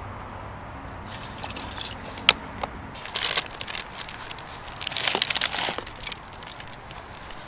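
Wood fire crackling, with a sharp pop about two seconds in and bursts of snapping around three and five seconds in.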